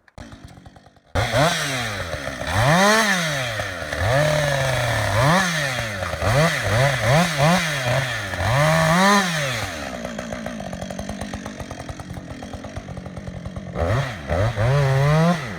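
Two-stroke chainsaw revved again and again, its engine pitch rising and falling in quick swells. It settles lower and steadier for a few seconds, then revs up again near the end.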